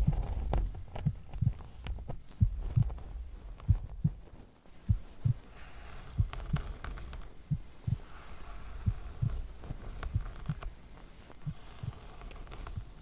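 Heartbeat, a steady 'lub-dub' of paired low thumps a little faster than once a second, slowly fading.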